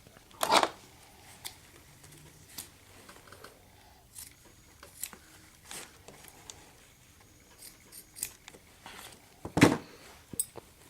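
Nylon webbing straps and small metal slides being handled: scattered light clicks and rustles, with two louder rustling strokes, one about half a second in and one near the end.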